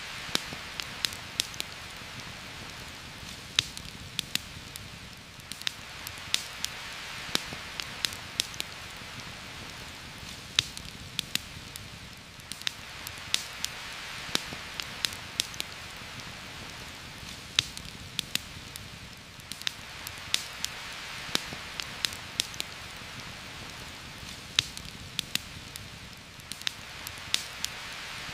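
Steady rain falling on leaves, swelling and easing every six or seven seconds, with frequent sharp pops and crackles from a campfire.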